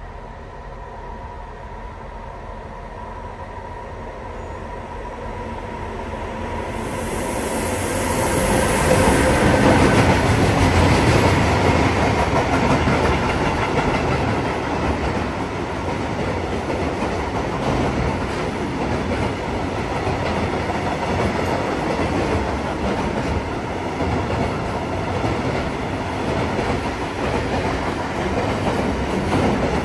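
A train running past on the station tracks. Its rumble builds over the first several seconds, peaks about ten seconds in, and then holds as a steady noise of wheels rolling on the rails.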